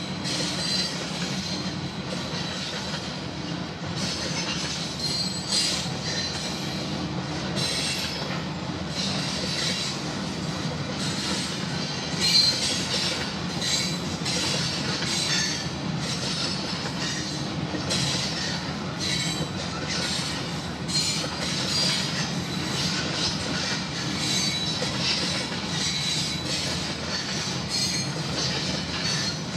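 Canadian Pacific train rolling past steadily, its steel wheels clattering on the rails with intermittent high-pitched wheel squeal.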